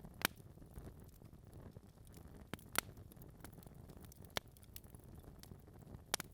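Wood fire burning in a fireplace: a soft low rumble with irregular sharp crackles and pops from the burning logs, the loudest a few seconds apart.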